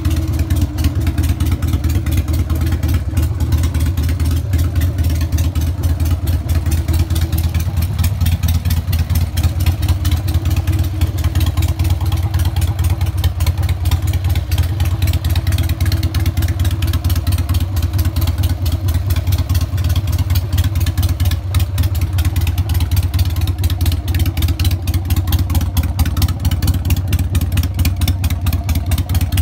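Harley-Davidson XL883 Sportster's 883 cc V-twin running steadily at idle through aftermarket exhausts, a deep even pulsing rumble with no revs.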